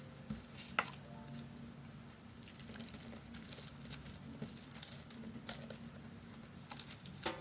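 Faint, scattered small taps and rustles of paper and stationery being handled.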